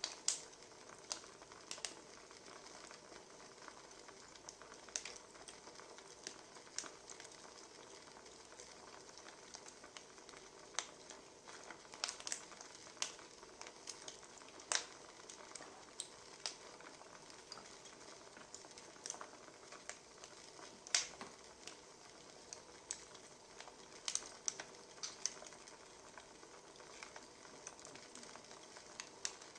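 Wood fire crackling: a steady soft hiss with irregular sharp pops and snaps.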